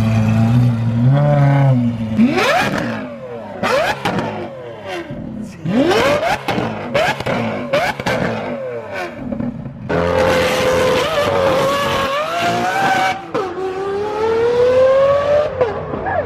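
Lamborghini Aventador SVJ's V12 with an aftermarket Gintani F1 exhaust, revved hard several times in quick sweeps up and down, with sharp pops and cracks from the exhaust. Near the middle it holds a long, loud pull, its pitch dipping and then climbing slowly.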